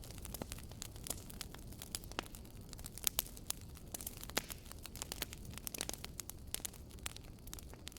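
Wood fire crackling, with irregular sharp pops and snaps over a low rumble of burning; the loudest snaps come about three seconds in and again a little after four seconds.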